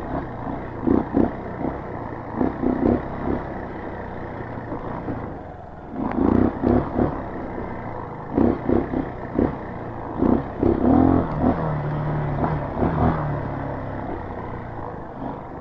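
Street-legal dirt bike's engine running under the rider's throttle over a trail of whoop-de-doos, its level surging and dropping over and over in short bursts.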